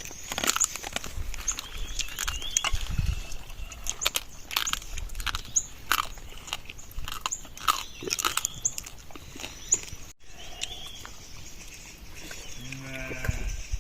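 Sheep flock with many short crunching clicks throughout, and a low animal call about a second before the end.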